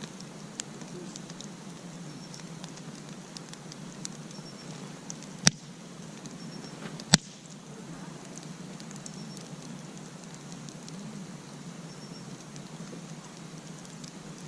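Wood campfire crackling with many small ticks, and two loud sharp pops near the middle, less than two seconds apart.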